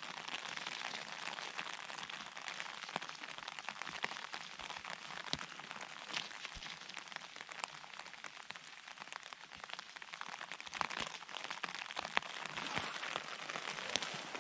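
Light rain pattering steadily, with scattered small clicks and the rustle of wet moss and undergrowth as mushrooms are picked by hand.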